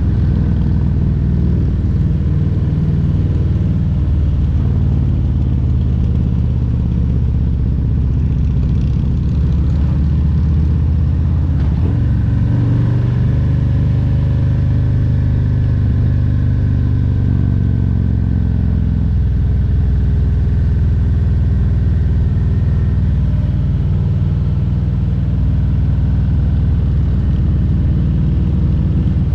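2022 Harley-Davidson Road Glide Special's 114 cubic-inch Milwaukee-Eight V-twin running while riding. The engine note steps up in pitch about twelve seconds in and drops back again about seven seconds later.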